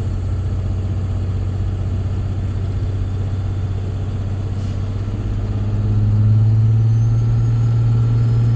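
Cummins 5.9 L common-rail turbo-diesel of a 2006 Dodge Ram 3500 idling steadily, then about six seconds in it gets louder and rises in pitch as the truck pulls away under load, with a faint high whine climbing alongside.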